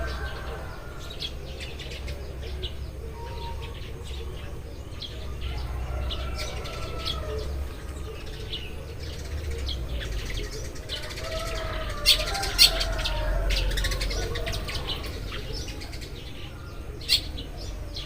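A group of Eurasian tree sparrows chirping continuously in short, overlapping chirps, over a low background rumble. Three sharp clicks stand out, two about twelve seconds in and one near the end.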